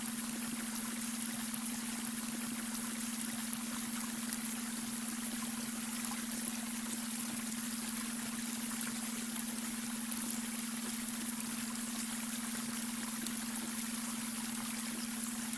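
Babbling brook: water running and trickling steadily over stones. A steady low tone, the beta-wave brainwave tone, is mixed in underneath.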